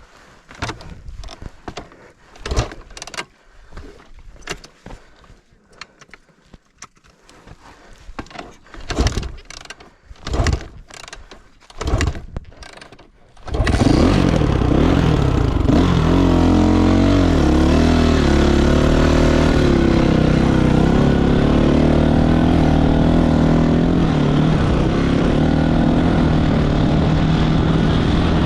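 Scattered knocks and thumps, then about halfway in a loud engine sound starts abruptly and runs steadily, its pitch wavering briefly just after it begins.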